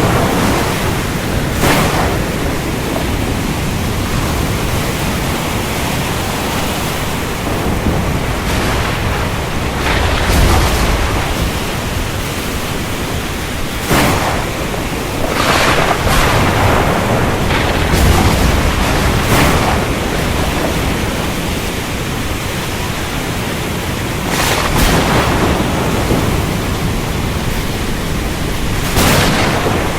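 Steady rain with thunder rumbling now and then, low swells about a third and two thirds of the way through, and a few brief cracks.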